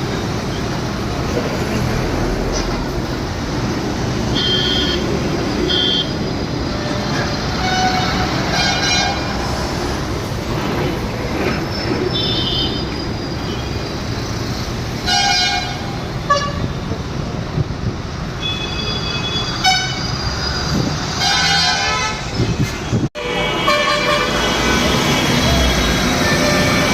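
Tata diesel bus engine running steadily under road noise, with vehicle horns tooting several times in short blasts.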